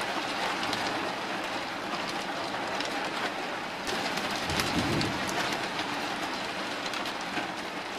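Heavy rain falling steadily during a thunderstorm, with a low rumble of thunder swelling about halfway through.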